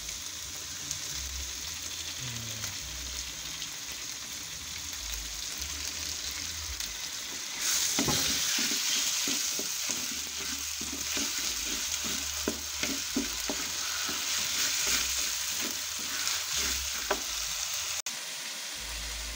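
Pounded spice paste and ground chili paste frying in hot oil in a wok, with a steady sizzle that grows louder and brighter about eight seconds in. Through the second half a metal spoon scrapes and taps against the pan as the paste is stirred.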